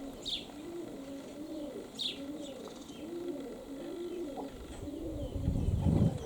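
Domestic pigeons cooing over and over in a steady run of rolling coos, with a few short high chirps from a small bird near the start and about two seconds in. Near the end a gust of wind rumbles loudly on the microphone.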